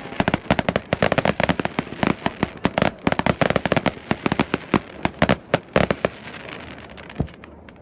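Fireworks display: a rapid volley of sharp crackling bangs, many per second, thinning to a few scattered cracks about six seconds in.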